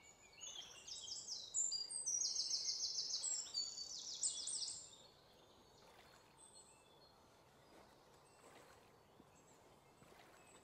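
Nature ambience of small birds singing fast, high trills, loudest in the first five seconds, then dying down to a faint outdoor hush.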